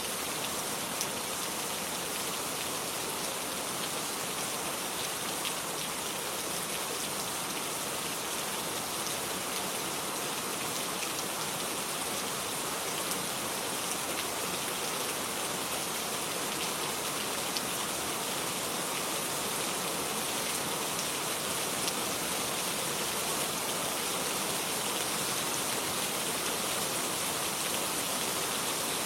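Steady rain falling, an even hiss with fine scattered drop patters.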